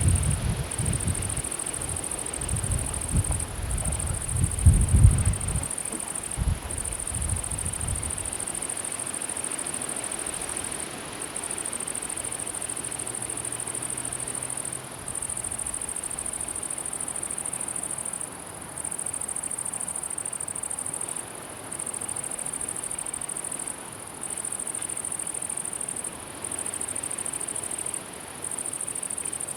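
A meadow insect stridulating in a steady high-pitched buzz, broken by brief pauses every two to three seconds. Low rumbling gusts of wind hit the microphone during the first several seconds.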